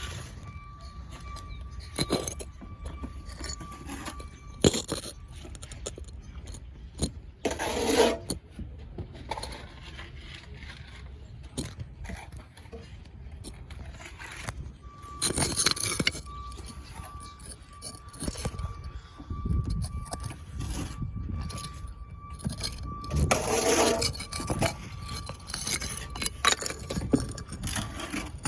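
Metal hand tools clinking, tapping and scraping during masonry and stucco work, with scattered sharp clicks and a few longer, louder scraping passes.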